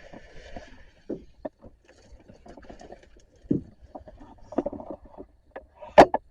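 Irregular handling noise: rubbing and scraping with scattered knocks and clicks, and one loud, sharp click about six seconds in.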